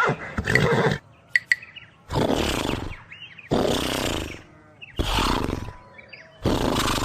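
A voice making the drawn-out 'shh' sound five times, each about a second long with short pauses between, as the sound that the letters SH stand for.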